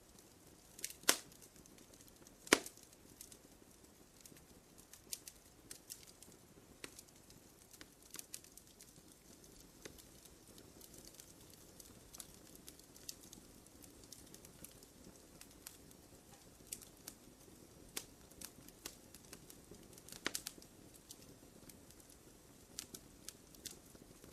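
Campfire crackling: irregular sharp pops and snaps over a faint low rush of flame, with two louder pops about one and two and a half seconds in.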